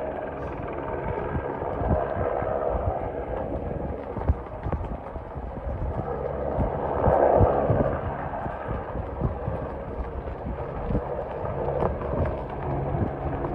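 Helicopter rotor and engine throbbing, with the thudding hoofbeats of running bison. The sound swells briefly about halfway through.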